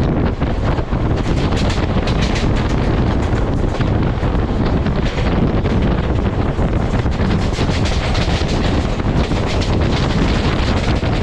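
Wind buffeting the microphone over a loud, steady low rumble, with rapid clattering throughout.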